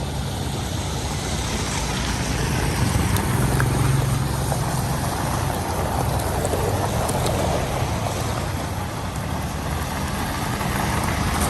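Steady low engine drone of a working truck, running continuously and swelling slightly a few seconds in.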